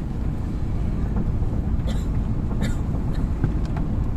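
Gusty wind buffeting the microphone: a steady low rumble, with a few faint short ticks about two seconds in.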